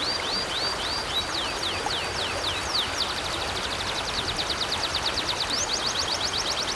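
A bird singing a long run of quick, high whistled notes, slower slurred notes giving way about three seconds in to a faster series, over the steady rush of a river.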